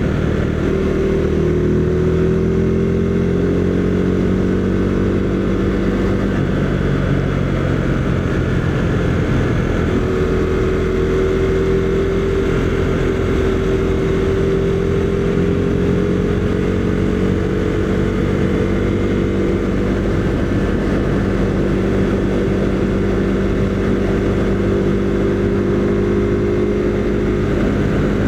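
Husqvarna Svartpilen 401's single-cylinder engine running at a steady cruising speed on the road, over constant wind rush. Its note shifts slightly about ten seconds in, then holds steady.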